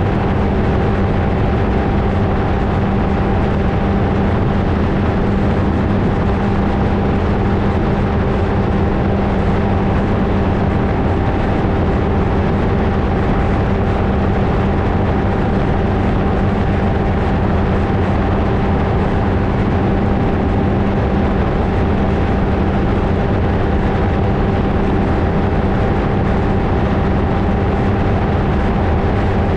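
Flightstar II ultralight's engine and propeller running steadily at constant power, one unchanging drone over heavy wind rush on the mounted camera.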